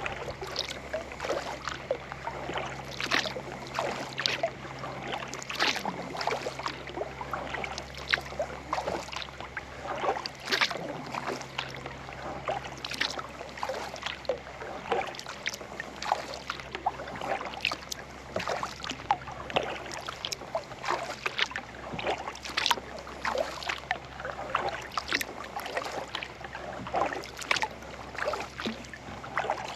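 Kayak paddle strokes in calm lake water: the blades dipping and pulling in a regular rhythm, a louder splash about every two and a half seconds, with water dripping and trickling off the paddle in between.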